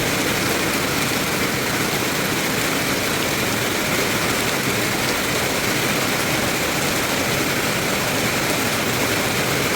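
Rain falling steadily: an even, unbroken rush of noise with no let-up.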